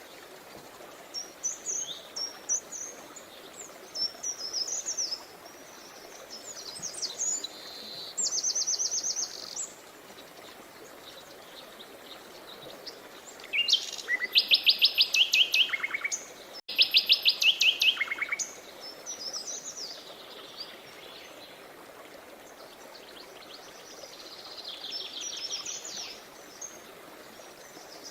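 Songbirds singing in repeated chirping phrases and fast trills, the loudest trills in the middle, over the steady rush of a stream.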